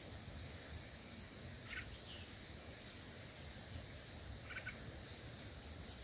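A bird gives two short chirps, about three seconds apart, over a steady low outdoor rumble.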